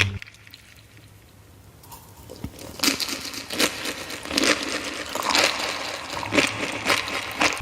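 Close-miked crunching and crinkling from eating or handling food, irregular sharp crackles that start about two seconds in after a quiet start.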